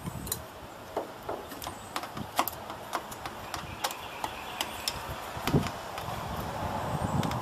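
Irregular small clicks, taps and a couple of duller knocks from computer parts being handled and worked on by hand.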